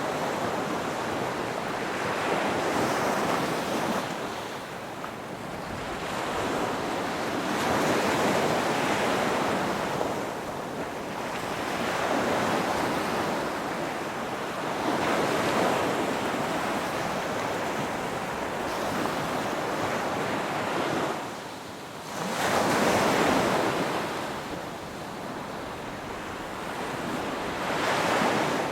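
Ocean surf: waves breaking and washing in, swelling and fading about every six or seven seconds. The loudest wave comes a little past the middle, just after a brief lull.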